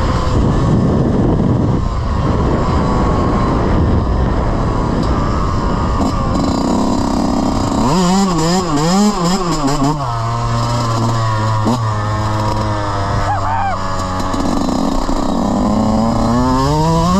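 Off-road vehicle engine running hard, then wavering quickly up and down in pitch for a couple of seconds, settling to a steady idle, and revving up with a rising pitch near the end.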